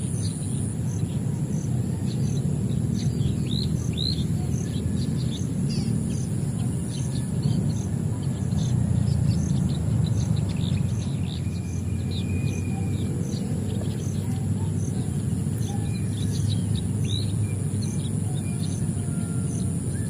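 Many small birds chirping in short, quick notes over a steady low background rumble, with a steady high buzz and an even pulsing trill like an insect's.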